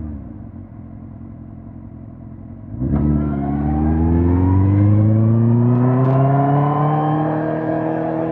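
Suzuki GSX-R1000 K5's inline-four engine running quietly off the throttle for about three seconds, then the throttle opens sharply and the revs climb steadily under acceleration, levelling off near the end.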